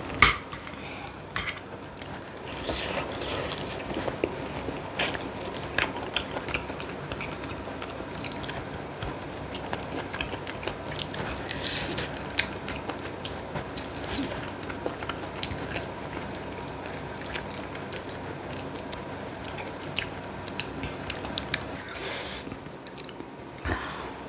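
Close-miked eating sounds: chewing and biting into braised kimchi and pork back ribs, with many wet mouth clicks. A sharp knock comes just after the start.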